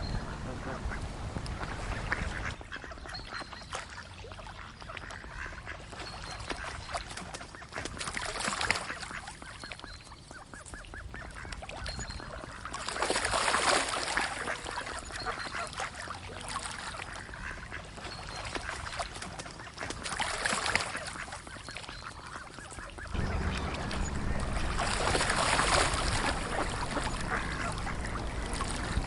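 Ducks calling, several loud bouts of quacking over a steady background, with a low rumble underneath near the start and again in the last quarter.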